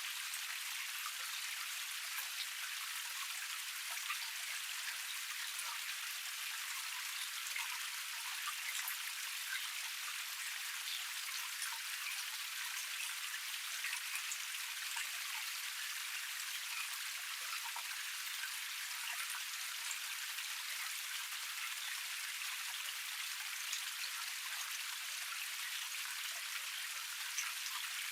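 Water of a small cascade splashing over rocks: a steady, even hiss dotted with the patter of many small falling drops, light and bright with no low rumble.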